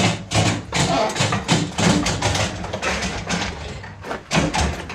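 Wrecked sport motorcycle being rolled down metal loading ramps, with a rapid run of clunks, knocks and rattles from the wheels, ramps and loose parts.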